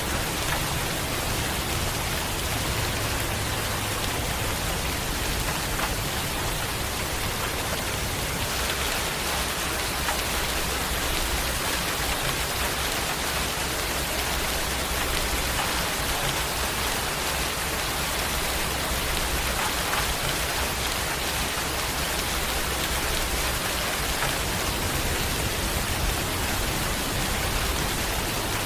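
Steady heavy rain falling and pattering on surfaces, a dense even hiss with a faint low rumble underneath.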